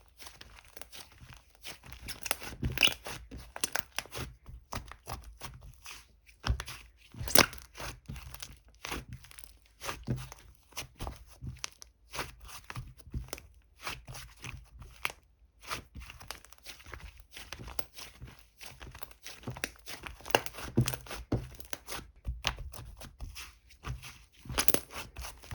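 Purple slime squished and pulled by hand, giving irregular crisp crackling and rustling with small pops of trapped air.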